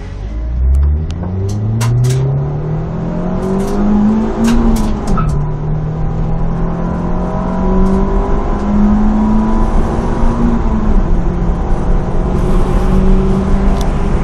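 Engine of a Ford ST car heard from inside the cabin under hard acceleration: the engine note climbs steadily through the revs, drops at an upshift about five seconds in, pulls on and shifts again near eleven seconds. A few sharp knocks sound in the first five seconds.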